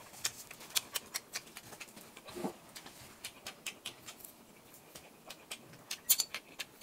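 Close-miked mouth sounds of a person chewing: irregular wet clicks and smacks, with a brief hum about two and a half seconds in.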